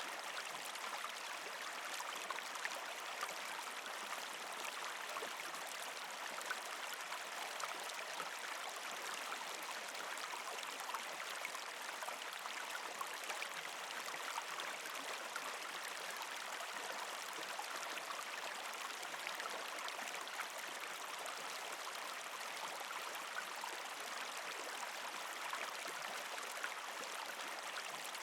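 Partially frozen creek flowing, a steady gurgle and trickle of water over rocks with many small splashes and ticks.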